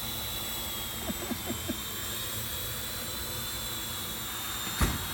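Parrot drone hovering, its propellers giving a steady high whine, with one short thump near the end.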